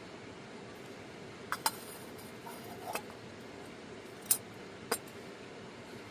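Five short, sharp clinks of tableware, the loudest about four seconds in, over a steady rushing hiss.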